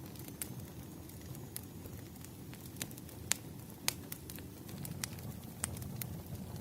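Fireplace fire crackling: a steady low rumble with sharp, irregular pops, the loudest two a little past the middle.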